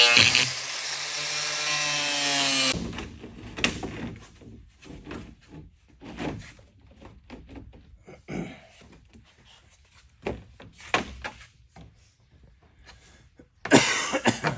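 A power tool runs for the first few seconds and cuts off abruptly, then scattered knocks and clunks of wood being handled follow, with a short loud burst near the end.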